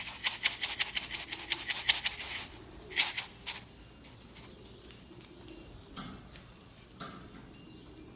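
Domestic pigeons moving about: a quick run of sharp clicks and rustles for the first two and a half seconds, a few more about three seconds in, then only faint, scattered sounds.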